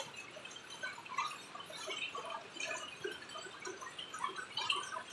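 Rain eased to a light sprinkle, with scattered, irregular drips pattering down.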